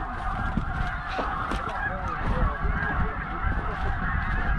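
Many snow geese calling at once: a dense, steady chorus of overlapping yelping honks.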